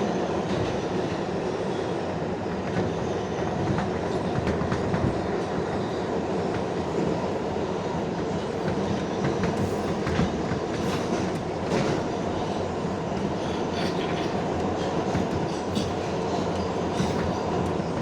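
An R142A subway car running at speed between stations, heard from inside: a steady rumble of wheels on the track with clicks over rail joints, the clicks coming thickest about halfway through and again near the end.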